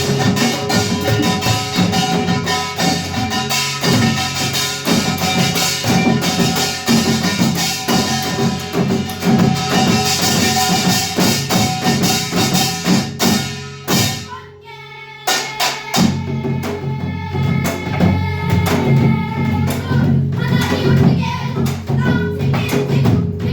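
Samul nori ensemble of small gong (kkwaenggwari), large gong (jing), hourglass drum (janggu) and barrel drum (buk) playing a fast, dense rhythm, with a short break about fourteen seconds in before the playing resumes.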